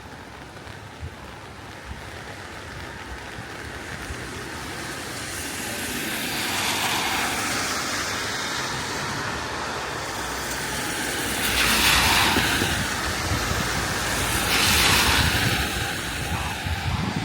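Cars passing on a wet road, their tyres hissing as each one swells and fades: three pass-bys, the loudest about twelve seconds in, over a steady low traffic rumble.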